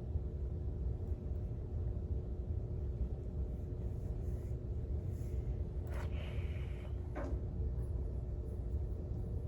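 Steady low rumble of room background noise with a faint steady hum. About six seconds in there is a click and a brief rustle, then another click about a second later, small handling sounds.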